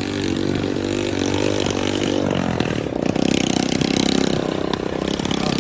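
A vehicle engine running close by, its pitch rising and falling as it revs, getting louder about three seconds in.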